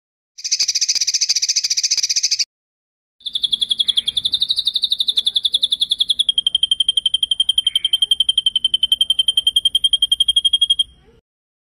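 Songbird singing a rapid rolling trill: a high buzzy trill of about two seconds, then after a short gap a long even trill of about nine notes a second that steps down slightly in pitch halfway through and cuts off suddenly.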